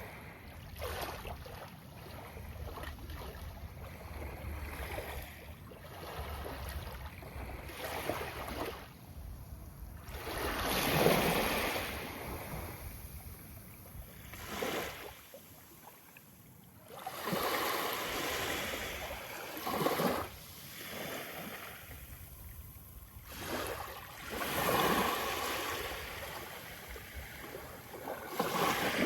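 Sea of Japan surf breaking on a beach: waves wash in one after another every few seconds, each swelling and fading, the loudest about a third of the way in.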